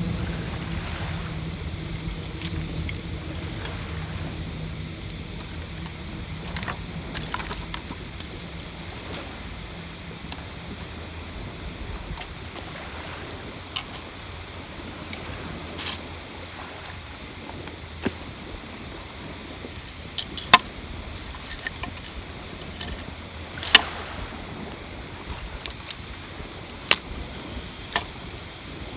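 Wood campfire burning, with a few sharp single pops and cracks in the second half. A steady rushing background runs under it, and a low hum fades out over the first ten seconds or so.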